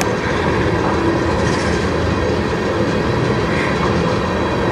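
Freight train tank cars rolling past, their steel wheels on the rails making a steady rumble and clatter.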